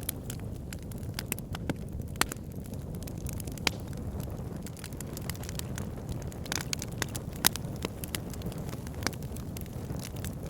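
Campfire burning, a steady low rumble of flames with irregular sharp crackles and pops from the burning wood.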